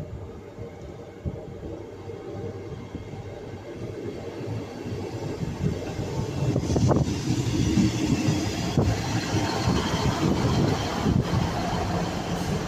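Class 158 diesel multiple unit pulling into the platform and running past close by, its rumble growing steadily louder as it nears. A few sharp clicks from the wheels sound in the second half.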